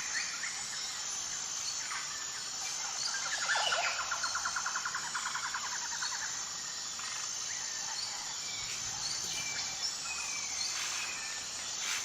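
Outdoor chorus of birds calling and chirping over a steady high insect buzz. A rapid pulsed trill starts about three and a half seconds in and lasts a couple of seconds.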